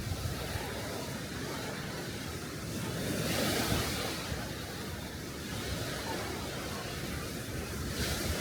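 Small sea waves washing up on a sand beach, surging about three seconds in and again near the end, with wind rumbling on the microphone.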